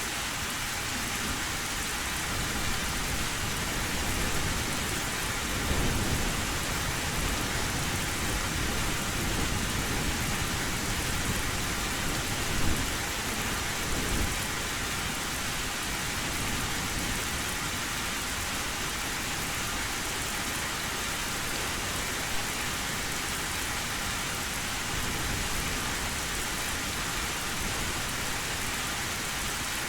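Heavy rain pattering steadily on an old tin roof. Low thunder rumbles swell a few times in the first half, the strongest about halfway through with a short sharp crack.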